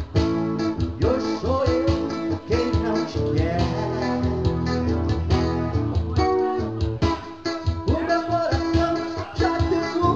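Live duo playing a song: guitar strummed in a steady rhythm with a voice singing over it.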